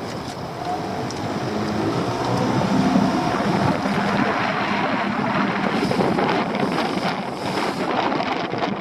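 Small boat under way, with wind buffeting the microphone and water rushing past, growing louder over the first few seconds.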